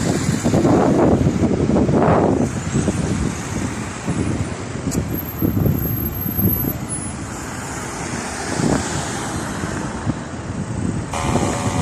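Road traffic noise: motor vehicles passing, a steady rough rumble with swells and no single clear engine note.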